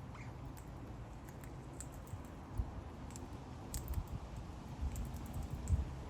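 Australian king parrots cracking seeds in their beaks: scattered sharp little clicks and crunches, a few a second, over a low rumble.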